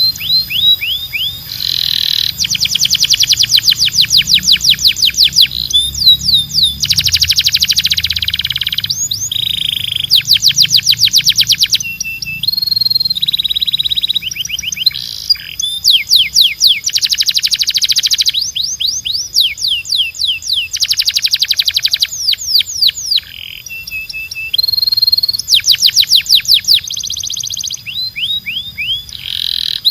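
Male canary singing continuously: a song built of fast trills, each a run of rapidly repeated high notes lasting one to two seconds, alternating with phrases of slower falling whistled sweeps.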